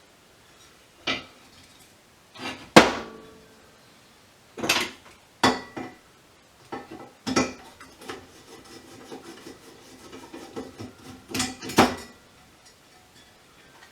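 Metal parts and tools clanking and clattering on a workbench as a broken VFD is pulled apart for scrap: a dozen or so separate knocks, some ringing briefly, the loudest about three seconds in.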